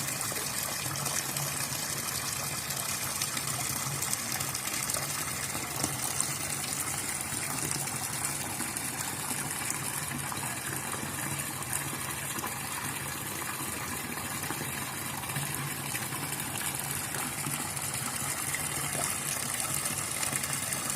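Steady rushing water, a continuous even gush with no breaks.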